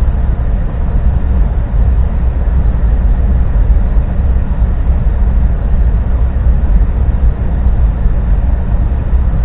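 Steady low rumble of an idling vehicle, heard from inside the cab.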